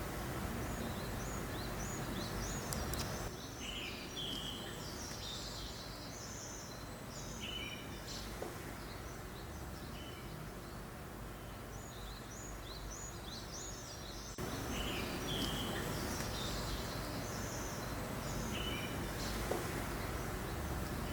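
Steady hiss of a gentle breeze with small birds chirping on and off, in short high calls.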